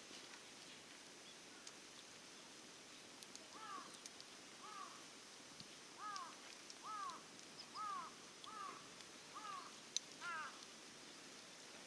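A bird calling repeatedly in the distance: about eight short arched calls in a row, roughly one a second, starting a few seconds in, over faint background hiss, with a sharp click near the end.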